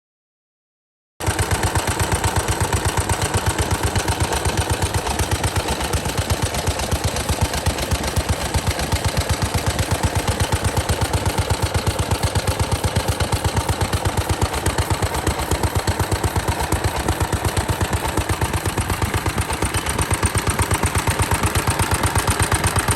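Vintage Japanese single-cylinder stationary engine (hatsudoki) from around 1960 running steadily, its exhaust beating in an even rapid pulse. The sound cuts in suddenly about a second in.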